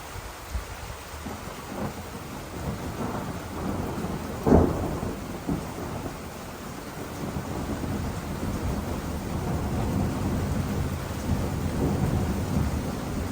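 Thunder rumbling, with a sharp loud crack about four and a half seconds in, then a long rolling rumble that builds again toward the end.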